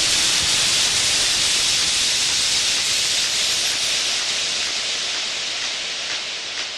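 A steady hissing noise with no pitch, strongest in the high range, fading slowly.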